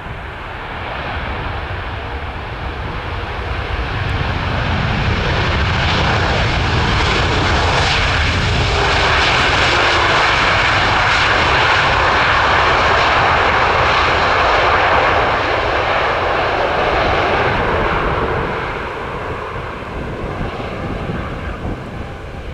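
Boeing 787-8 jet airliner passing overhead on its landing approach. The engine noise swells over the first few seconds, stays loud for about fourteen seconds, then fades away near the end.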